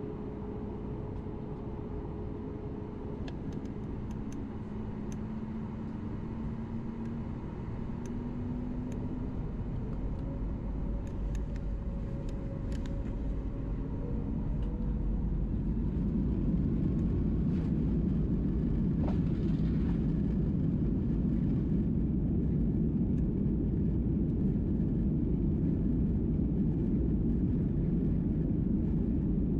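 Airliner jet engines rumbling and growing steadily louder, with a few faint engine tones that slowly rise in pitch during the first half.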